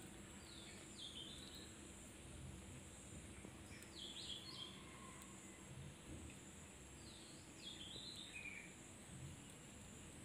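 Faint high chirping of a small bird in the background, three short runs of two or three quick sweeping notes about three seconds apart, over a steady faint high hiss.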